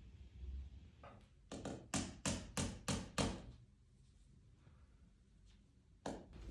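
A quick run of about six sharp knocks or taps, roughly three a second, then one more near the end.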